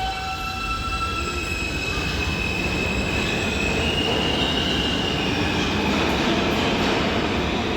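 New York City subway train running through the station, a rumble of cars on the rails getting louder, with high steady wheel squeal at several pitches over it.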